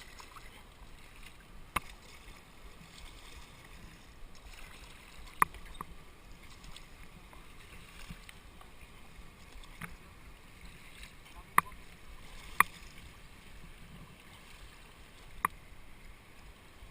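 A kayak moving on a river, with a steady hiss of water around it and six sharp knocks a couple of seconds apart.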